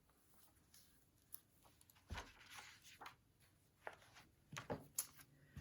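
Faint paper rustling and soft bumps of a picture book being handled and its pages turned, loudest about two seconds in and again near the end.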